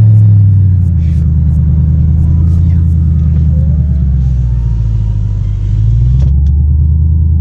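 Mercury Grand Marquis 4.6-litre V8 with the mufflers deleted, exhaust rumbling: the revs fall back about half a second in, run steady, then rise briefly near six seconds before settling.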